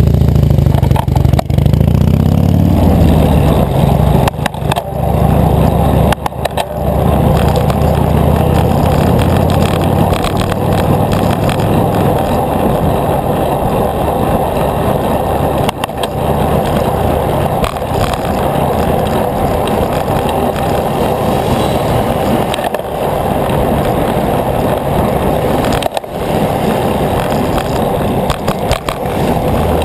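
Steady rushing noise of a bicycle riding along a road. A motor vehicle's engine rumbles close by at first and fades away over about the first twelve seconds, and a few sharp knocks break in here and there.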